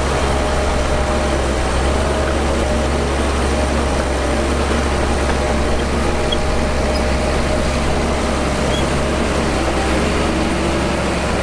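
Heavy diesel earthmoving machinery running steadily, a constant low drone with no change in speed.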